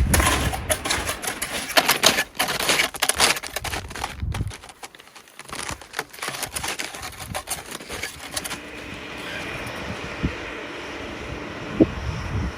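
Strong wind gusting over the phone's microphone, with a dense crackling rattle for the first several seconds, then settling into a steadier rush.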